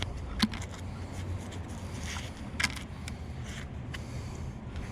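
A few light clicks and clinks of small metal chips and slag on a fishing magnet as they are picked off by hand, over a steady low rumble.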